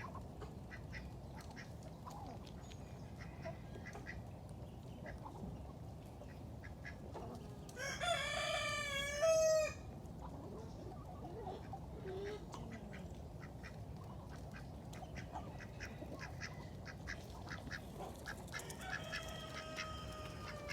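Ducks and chickens calling throughout, with a rooster crowing once for about two seconds about eight seconds in, the loudest sound, and another crow starting near the end.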